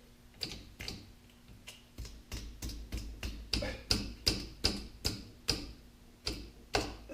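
Small hammer tapping a tight-fitting part down into its seat on a Kubota L3600 tractor: a run of sharp metallic taps, about three a second at their quickest, loudest near the middle.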